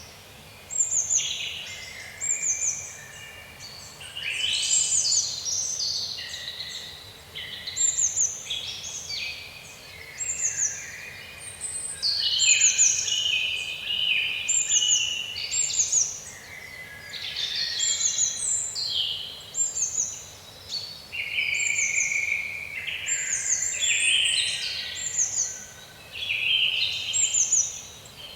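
Woodland dawn-chorus-style birdsong: several songbirds singing over one another, one repeating a short, high, falling note every second or two while others add warbled phrases lower down.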